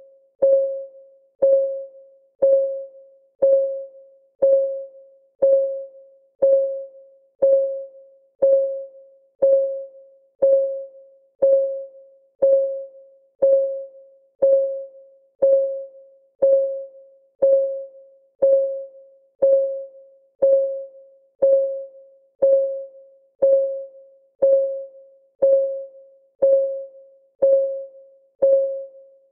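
Clock ticking sound effect, one tick per second at an even beat. Each tick is a short, pitched tock that dies away quickly.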